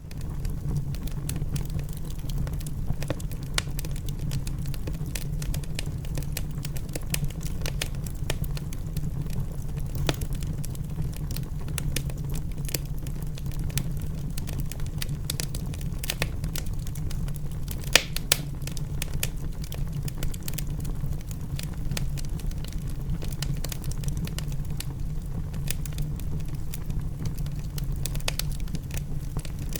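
Wood fire crackling in a fireplace: scattered sharp pops and snaps over a steady low rumble, with one louder pop about 18 seconds in.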